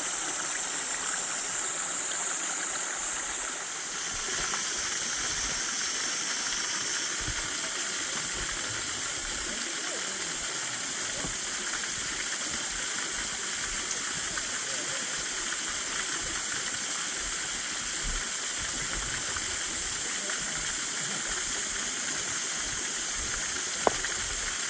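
Steady rushing of a valley waterfall and its stream, with a single sharp click near the end.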